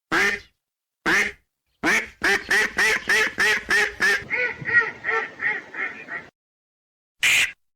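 Duck quacking: two single quacks, then a fast run of about a dozen quacks at roughly three a second that trails off softer, and one more quack near the end.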